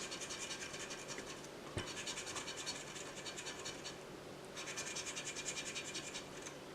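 Scratch-off lottery ticket being scratched: quick, rhythmic scraping strokes across the ticket's coating, in two runs with a short break about four and a half seconds in.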